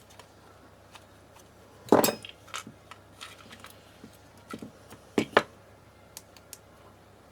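Small hard objects being handled and set down on a bench: scattered clicks and clatters, with a loud knock about two seconds in and a quick pair of knocks a little past five seconds.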